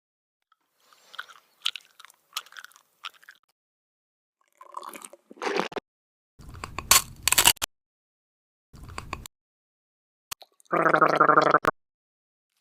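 A string of short, separate stock sound effects with dead silence between each: crackly, crunchy noises first, then louder crisp bursts, and a short pitched buzz near the end.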